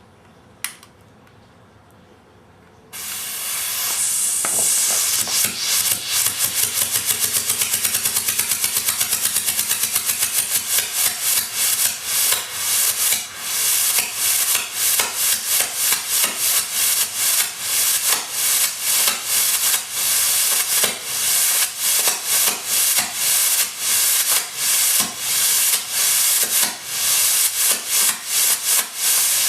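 Homemade potassium nitrate and sucrose (rocket candy) rocket motor igniting about three seconds in and burning with a loud hiss, chuffing in rapid uneven pulses for over twenty seconds before dying away at the very end.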